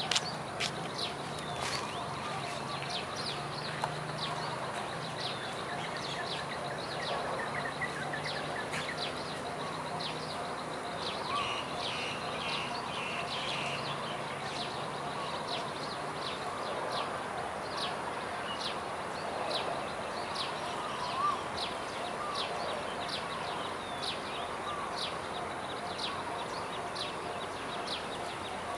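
Birds calling in the open: short, sharp chirps repeating about once a second, with a burst of quicker calls around twelve seconds in, over a faint low hum.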